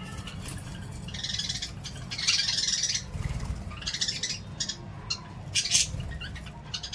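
Small pet parrots giving harsh, high-pitched chattering and squawking calls in several short bursts, the longest about a second in and the loudest near the six-second mark, over a steady low hum.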